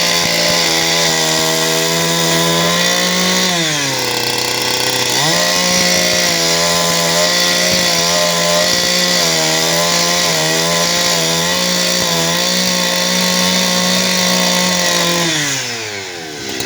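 Chainsaw cutting parota wood, its engine running steadily at high revs. The engine pitch sags for about a second around four seconds in, then climbs back. Near the end it falls away as the throttle comes off.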